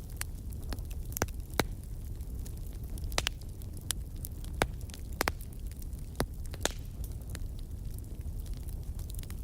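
Wood fire burning in a fireplace: a steady low rumble of the flames with irregular sharp crackles and pops of the burning logs, several standing out louder than the rest.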